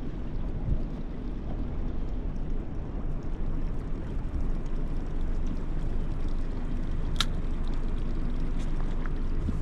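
Steady low rumble of wind on the microphone and water gurgling around a small fishing boat, with one sharp click about seven seconds in.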